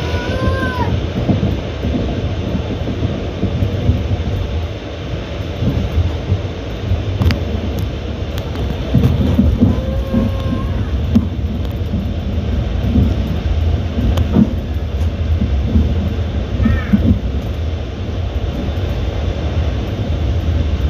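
Passenger train running along the track, heard from inside the carriage: a steady low rumble with occasional sharp knocks from the wheels.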